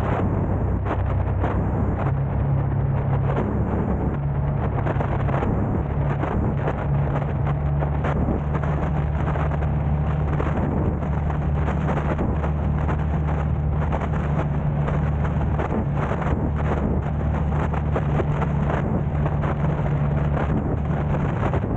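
A car driving, its engine and tyres making a steady low drone, with frequent short buffets of wind on the camera's microphone.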